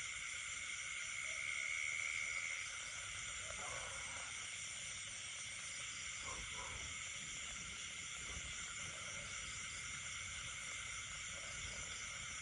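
Night chorus of frogs and insects: a steady, layered high-pitched trilling drone, with one note louder for the first two and a half seconds and then settling back, and a few faint lower calls in the middle.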